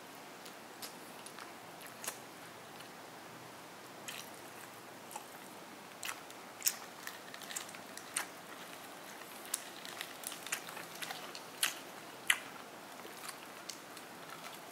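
Eating a crumbed fried chicken chop: biting and chewing with sharp, irregular crackly clicks and wet squishing, coming more thickly from about six seconds in.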